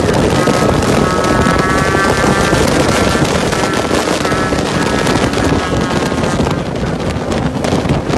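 Heavy wind buffeting the microphone over a motorcycle engine running at road speed, easing slightly near the end.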